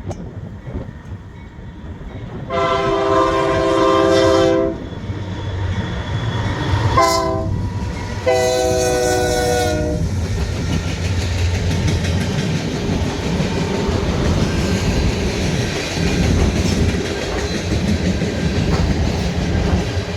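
Freight train locomotive sounding its multi-note air horn: a long blast, a short one, then another long one. The train's rumble and the clickety-clack of its wheels on the rail joints grow louder and carry on after the horn stops.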